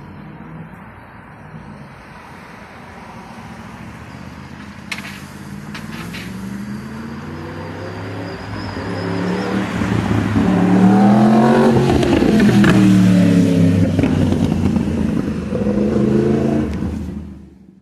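2015 Yamaha R1's crossplane inline-four engine revving as the bike approaches and passes: the sound builds over several seconds, is loudest about two thirds of the way in with the pitch rising and falling, then fades and cuts off abruptly near the end.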